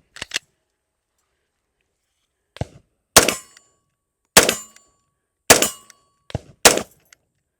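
Taurus TH10 10mm pistol firing four shots about a second apart, each a sharp, loud report, some followed by a short ringing tone. A couple of sharp clicks come at the very start, and fainter cracks sound just before the first and last shots.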